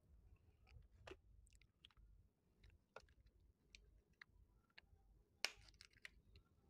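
Very faint chewing of a soft gummy candy: sparse small mouth clicks, with a sharper cluster of clicks about five and a half seconds in.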